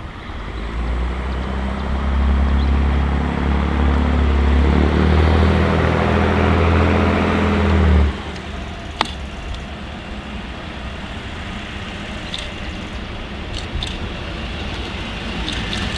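Heavy railway diesel engine running with a deep, steady note. It grows louder over the first couple of seconds, then cuts off abruptly about halfway through. A single sharp click follows, then a few lighter clicks over a broad background noise.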